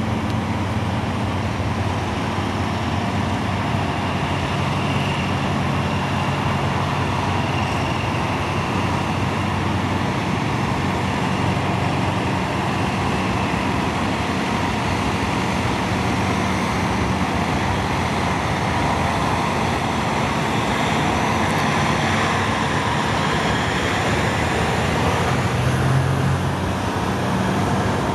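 Diesel engine of a 2003 Peterbilt 379 truck running steadily: a low hum under an even rushing noise.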